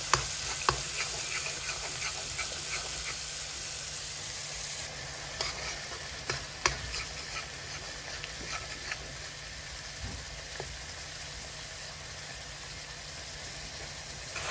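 Ground onion and ginger-garlic paste sizzling steadily in hot oil in a metal kadai. A steel spoon stirs it, scraping and clicking against the pan now and then.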